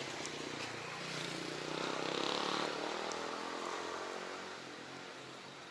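A motor vehicle passing on the street, its engine and road noise growing louder about two to three seconds in and then fading away.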